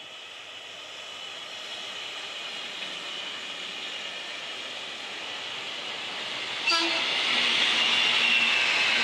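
JR Kyushu electric trains passing on the line: the 817 series local runs by with a steadily rising running noise and a high whine. About two-thirds through, a short train horn blast sounds, and the noise jumps louder as the oncoming 811 series train approaches.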